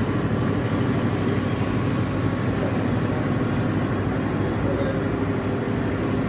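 Train running, a steady even noise heavy in the low end with no breaks.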